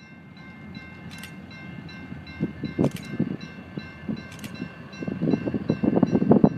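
Freight train with diesel locomotives approaching, its low rumble growing steadily louder over the last couple of seconds. A faint steady high tone runs throughout, with a few sharp clicks.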